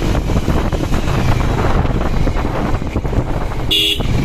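Wind buffeting the microphone on a moving motorcycle, with the bike's engine running underneath. A brief high beep sounds near the end.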